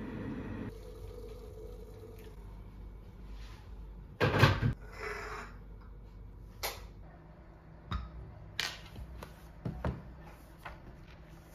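Household handling noises: a steady noise stops just under a second in, then a loud knock about four seconds in and a few sharp clicks and knocks after it, like objects, doors or cupboards being handled in a small room.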